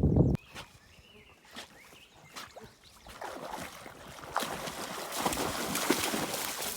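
Water splashing and sloshing in irregular spatters, building from about three seconds in and loudest near the end, as a dog moves through shallow water.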